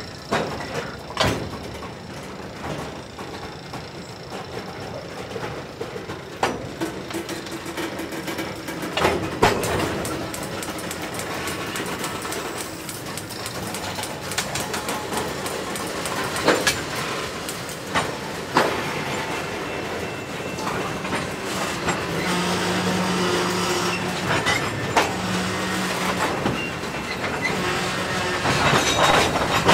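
Freight train of tank cars rolling slowly past, with the wheels clicking and knocking at irregular intervals over a steady rumble. A low hum joins about two-thirds of the way through.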